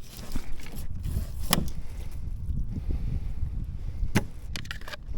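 Knife cutting a bluefish into bait strips on a cutting board, with a few sharp knocks of the blade on the board, two of them standing out, over a steady low rumble.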